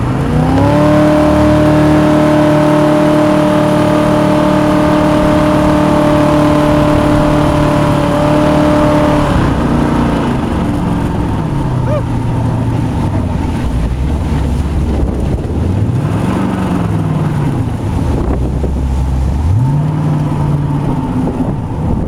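Homemade jet boat's 350 V8 opened up to full throttle: the engine note climbs quickly, holds high and steady for about nine seconds, then drops back, with two brief rises and falls in pitch near the end.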